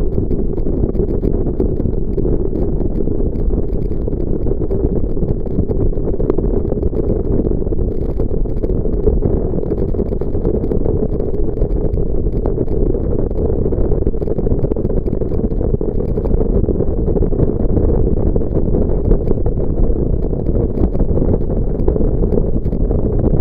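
Jet boat under way: a loud, steady rumbling noise that holds without change.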